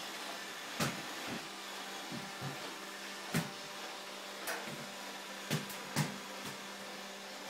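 iRobot Roomba 780 robot vacuum running with a steady whirr, broken by about eight sharp knocks scattered through, two of them louder.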